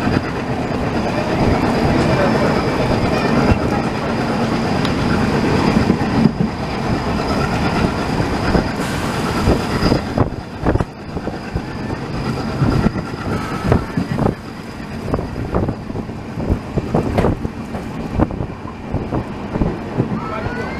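Passenger train running at speed, heard from a coach window: a dense, steady rumble of wheels on rail. From about halfway through, a run of sharp, uneven clacks rises out of it as the wheels cross rail joints.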